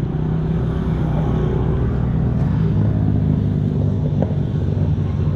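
Small motorcycle engine running steadily at a fairly constant speed, its pitch wavering slightly, with some wind on the microphone.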